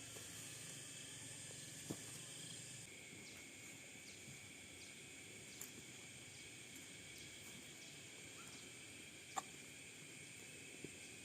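Faint outdoor ambience with steady high insect buzzing and a few light clicks, the sharpest about two-thirds of the way through.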